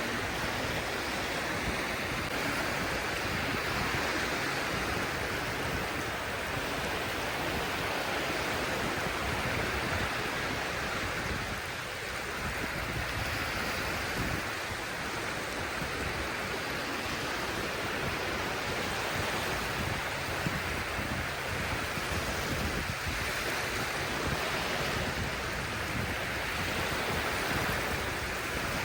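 Sea surf washing onto the shore: a steady rush of water noise with gentle swells and dips.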